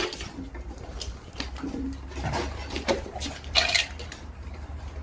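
Scattered clicks and clattering knocks of hard objects over a low, steady rumble, with a sharper clatter about three and a half seconds in.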